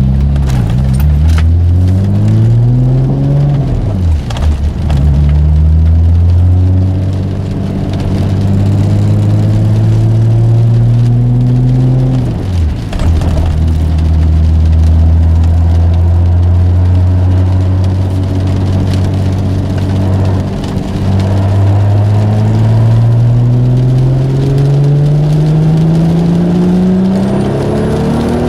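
Single-turbo Audi S4 engine accelerating hard through the gears. Its pitch climbs steadily, drops sharply at each upshift about 4, 12 and 21 seconds in, and climbs again.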